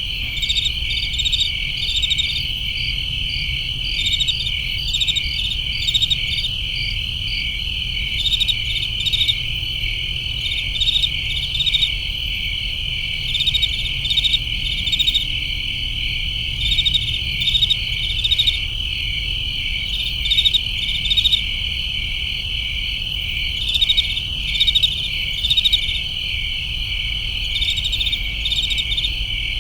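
A night chorus of crickets: a dense, steady trill with louder chirps pulsing over it in irregular groups every second or two, over a low hum.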